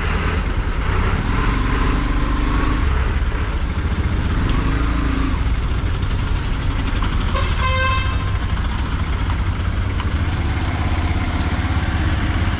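Motorcycle riding along: steady engine and road noise with wind rushing over the microphone. A short vehicle horn toot sounds about seven and a half seconds in.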